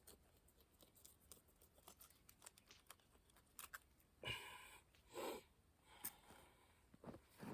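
Near silence: faint scattered clicks and small handling noises, with two brief soft sounds a little over four and five seconds in.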